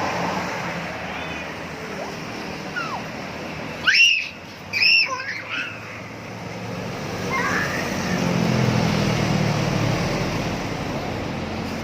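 Kitten meowing, two high-pitched calls about four and five seconds in, each rising then falling, over steady background noise. A low engine hum swells in the second half and fades.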